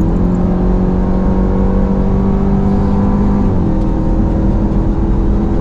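Dodge Durango SRT Hellcat's supercharged 6.2-litre Hemi V8 pulling at part throttle with a steady engine note. The note drops sharply in pitch about three and a half seconds in, as the automatic gearbox shifts up.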